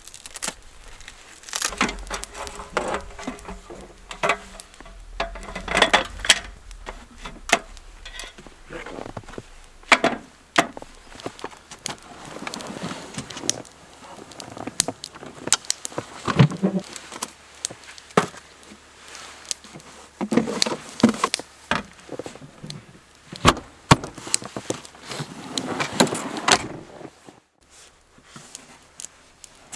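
Irregular handling noises: scattered clicks, knocks and rustling, with a few sharper clacks.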